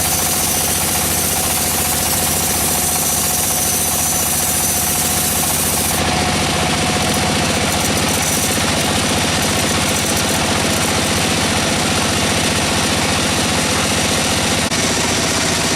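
Sawmill machinery engine running steadily. The sound changes abruptly about six seconds in.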